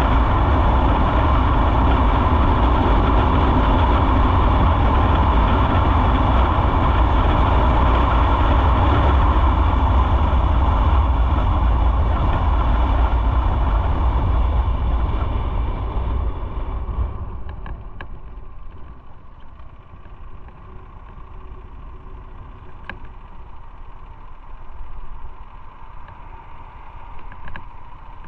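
Motorcycle riding with engine rumble and wind noise on the microphone, which fade away over a few seconds past the middle as the bike slows, leaving a much quieter engine running with a few faint clicks.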